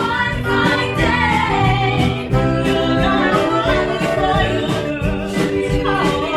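Music: a woman singing a 1960s-style pop song over a band with bass and a steady drum beat.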